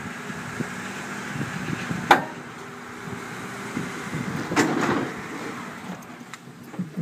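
Honda Odyssey's V6 engine idling steadily, with a sharp click about two seconds in and a louder clunk near five seconds.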